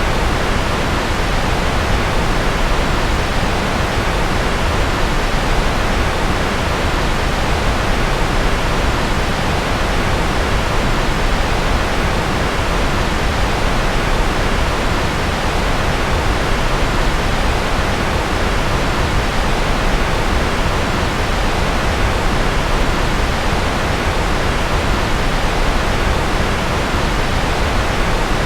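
Steady white noise, unchanging throughout, fuller in the bass and softer in the highs, like pink noise.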